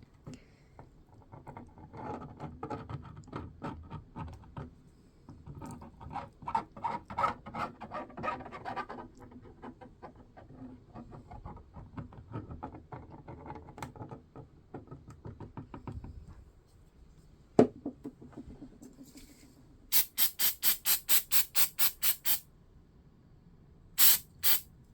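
Quiet scraping and small clicks of 3D-printed plastic helmet parts being handled and glued, then a sharp click. This is followed by a quick run of about ten short hisses of adhesive spray, and two more hisses near the end.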